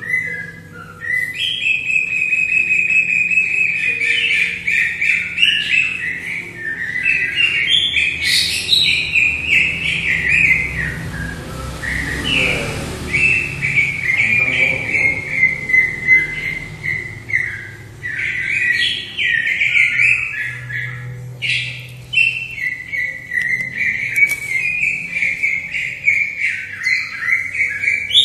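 Leafbird singing a long, nearly unbroken run of rapid, varied chirps and whistled phrases. A brief burst of noise sounds about halfway through.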